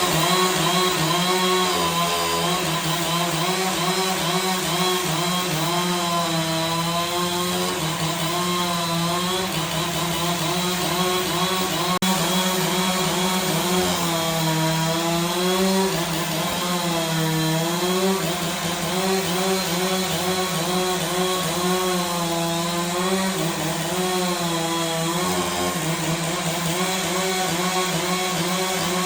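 Engine-driven saw running steadily as it cuts through wood, its pitch dipping and recovering every second or two as the load changes.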